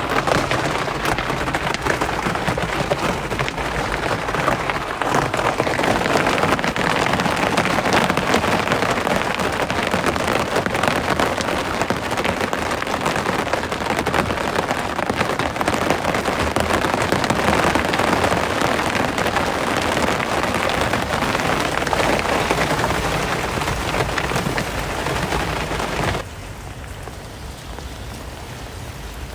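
Heavy rain falling, a dense, even patter of drops. Near the end it cuts abruptly to quieter rain.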